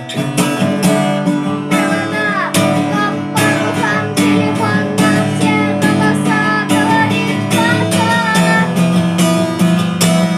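Acoustic guitar strummed in a steady rhythm, with a voice singing a melody line about two seconds in and again near the end.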